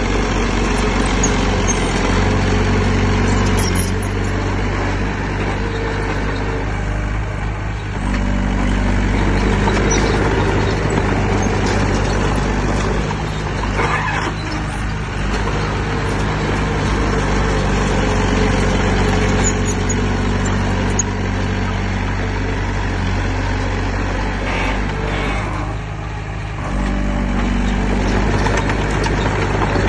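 Heavy diesel engine of earthmoving machinery running continuously under load, its note shifting a few times as the throttle and load change, with a brief dip about 26 seconds in.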